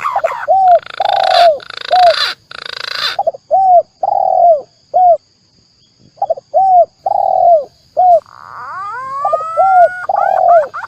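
Spotted dove (tekukur) cooing in a run of short, arched coos with a brief pause in the middle. A green pigeon's (punai) rising whistled call comes in a little past the middle. These are recorded lure calls for attracting both species.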